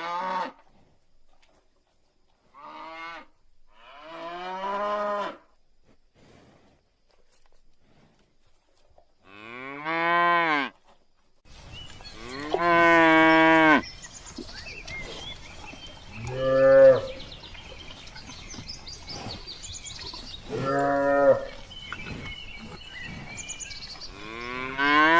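Cattle mooing, about eight separate moos spaced a few seconds apart, the longest lasting over a second. Partway through, a steady background hiss comes in under the moos.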